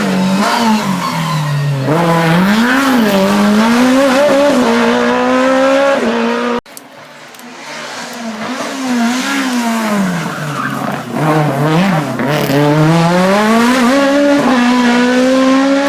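Race car engine running hard on a hillclimb, its pitch repeatedly dropping and climbing as it lifts, shifts and accelerates between bends. The sound cuts off suddenly about six and a half seconds in, then a second stretch of engine note builds up and holds high.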